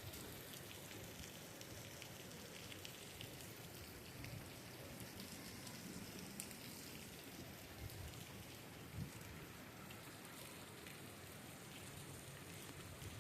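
Steady rain falling, an even hiss with scattered drop ticks; a faint low thump about nine seconds in.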